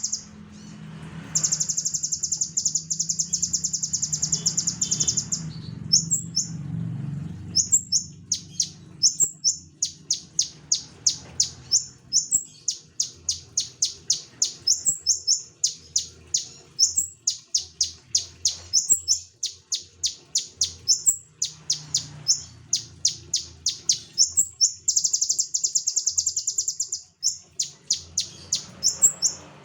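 Konin songbird singing vigorously (gacor). It gives a long, rapid, high-pitched trill near the start and another near the end, and between them a steady run of sharp, high chirps about twice a second. A faint low hum sits underneath.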